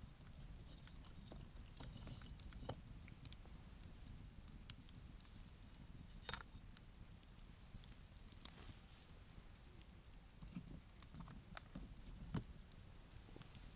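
A wood fire crackling faintly: scattered sharp ticks and pops, with a louder pop about six seconds in and another near twelve seconds.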